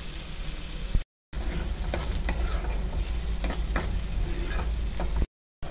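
Tomato puree sizzling in hot oil as it is stirred into fried onion paste in a pan, with a spoon scraping the pan several times. The sound cuts out briefly twice.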